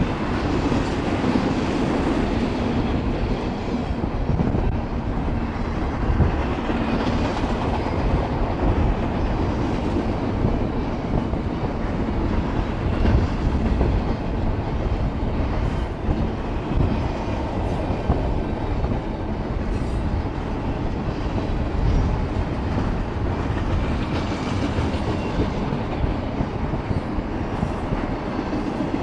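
Double-stack intermodal well cars of a freight train rolling past steadily, steel wheels running on the rails with a few brief clicks along the way.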